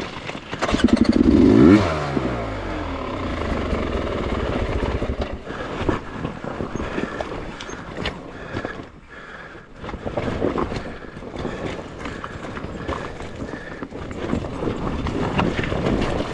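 Dirt bike engine revving sharply about a second in, then running at lower revs with short throttle blips. Rocks clatter and scrape under the tyres.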